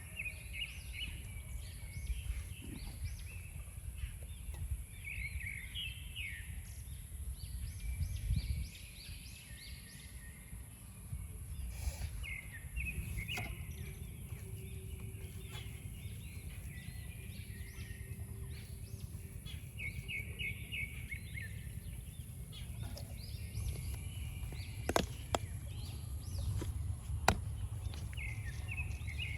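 Outdoor ambience of small birds chirping in short repeated phrases over a steady low rumble, with a couple of sharp clicks near the end.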